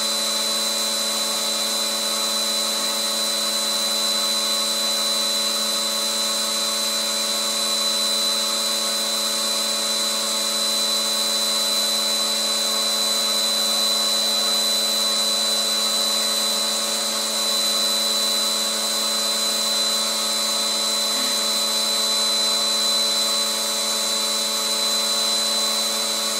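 Vacuum cleaner motor running steadily with a high whine, used to draw loose hair off a moulting greyhound's coat.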